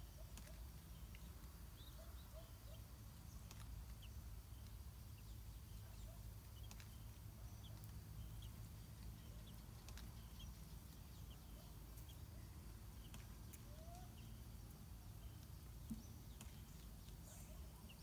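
Faint, short bird chirps scattered throughout over a low steady background hum.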